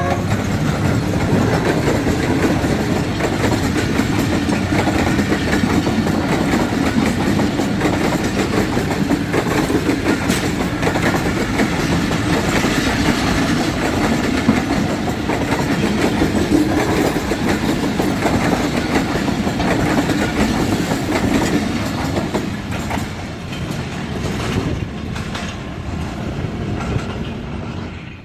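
A passenger train passing close by, its wheels clattering over the rail joints in a steady, continuous rumble that eases slightly near the end.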